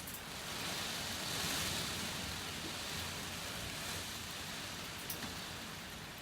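Steady rain falling, an even hiss that swells slightly about a second in and eases off again.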